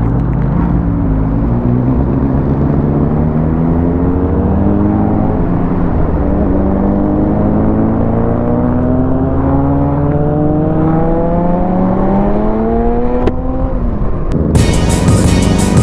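Motorcycle engine heard while riding at highway speed over a steady rush of wind and road noise, its pitch climbing slowly as the bike accelerates, then dropping back. Near the end, music cuts in abruptly.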